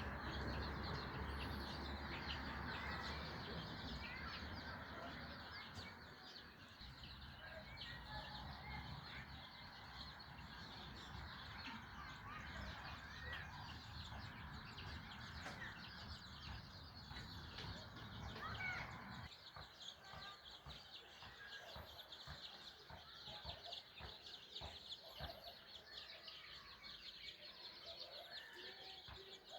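Many birds chirping and calling, with a low rumble underneath that stops about two-thirds of the way through.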